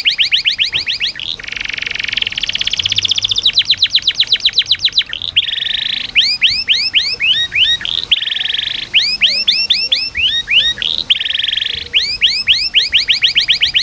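Domestic canary singing a continuous song of tours: dense, very fast rolling trills alternate every second or two with runs of repeated quick rising whistled notes.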